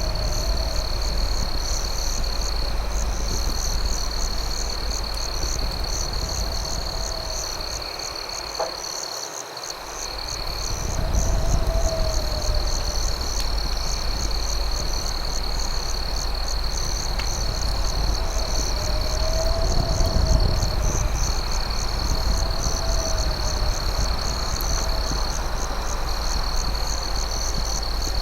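A night chorus of crickets: a steady high trill with a fast pulsing chirp above it, and a lower drawn-out call that rises and falls every few seconds. Underneath is a low rumbling noise that dips briefly about nine seconds in, with only an occasional faint click.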